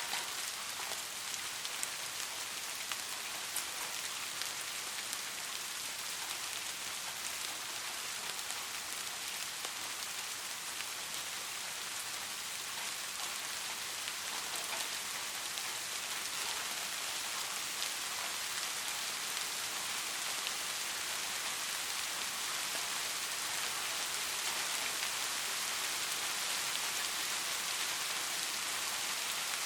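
Steady rainfall, a constant hiss with many fine drop ticks, growing slightly heavier in the second half.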